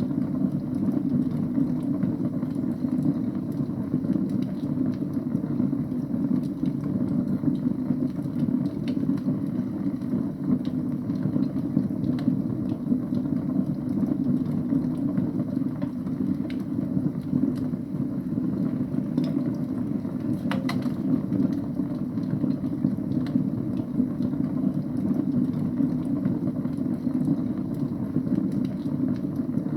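Wood fire burning in a fireplace: a steady low rush of flames with scattered faint crackles, and one sharper pop about twenty seconds in.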